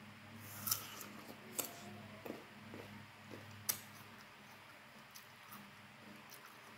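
Close-up eating sounds of a person chewing firm mango slices, with a handful of sharp wet clicks and smacks, the loudest about a second in, near two seconds in and near four seconds in. A steady low hum runs underneath.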